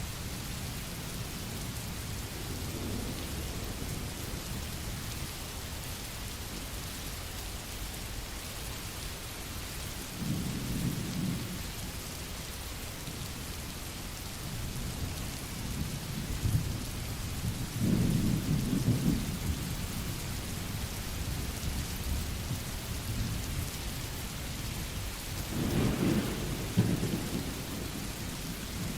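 Steady rainfall with low rolls of thunder swelling up three times: about a third of the way in, a little past the middle, and near the end, the last the loudest.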